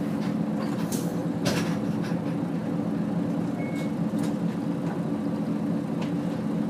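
Nissan Diesel UA city bus (KL-UA452KAN) diesel engine running at a steady speed, heard from inside the passenger cabin while the bus is under way. A few brief clicks and rattles sound over the steady hum, about a second in, again half a second later, and past the middle.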